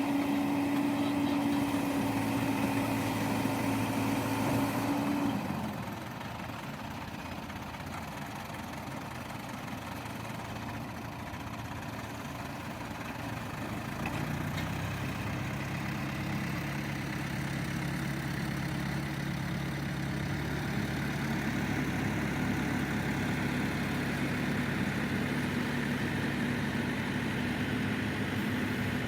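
Diesel engine of an earthmoving machine running steadily. It drops quieter about five seconds in, then comes up again about fourteen seconds in with a steady, lower hum.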